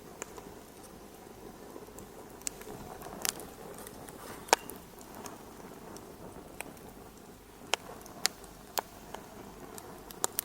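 Wood fire crackling in a fireplace: irregular sharp pops and snaps over a low steady hiss, the loudest pop about four and a half seconds in.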